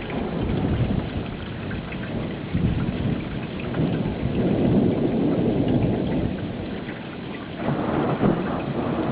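Thunderstorm: steady wind-driven rain with rolling thunder rumbling underneath, swelling in the middle and again near the end.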